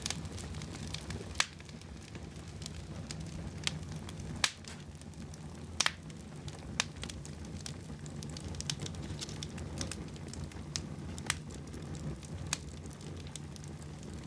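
Wood fire burning in a fireplace: a steady low rumble with irregular sharp crackles and pops, several of them louder, about one to two a second.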